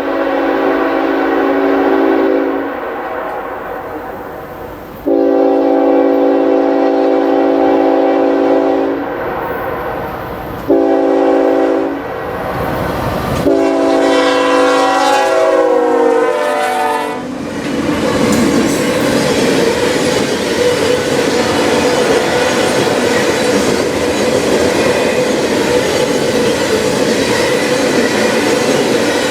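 Locomotive air horn sounding the long, long, short, long grade-crossing signal, its chord dropping in pitch at the end of the last blast as the engine passes. Then the train's cars roll by with a steady rumble.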